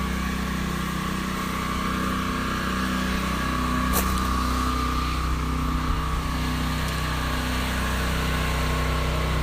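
Small gas engine of a pressure-washing rig running steadily at constant speed, with one sharp click about four seconds in.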